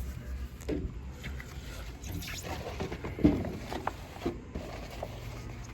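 Hand wrenches being handled and set down: scattered light clinks and knocks, the sharpest about three seconds in.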